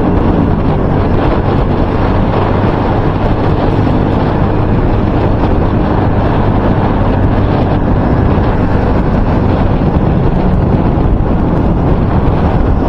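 Heavy wind buffeting the microphone, a loud, steady rumble that wrapping the microphone in electrical tape has not cured. A faint steady low hum runs underneath.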